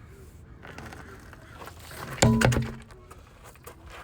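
A loud metallic clank about two seconds in, with a brief ringing tail, among faint scattered clicks of metal tools on the car's wheel hub.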